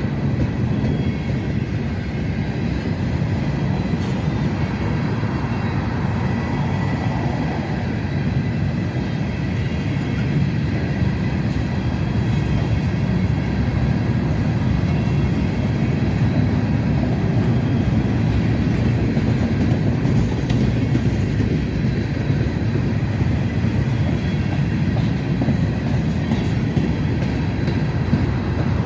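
Freight train cars rolling past steadily on the rails, a continuous loud rumble with faint high tones from the wheels.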